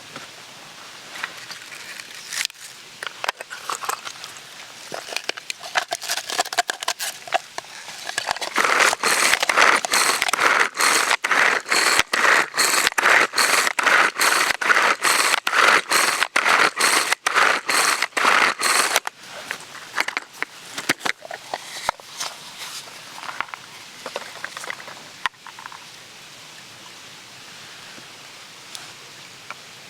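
Rapid, even chopping strokes of a blade cutting up food for monjayaki, starting about eight seconds in and stopping abruptly about ten seconds later. Lighter scattered clicks and crackles are heard before and after.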